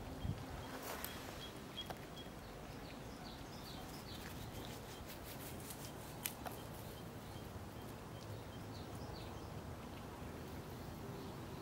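Small birds chirping in short clusters of quick, high, falling notes, repeating every few seconds over a faint steady outdoor hiss. A single sharp click about six seconds in.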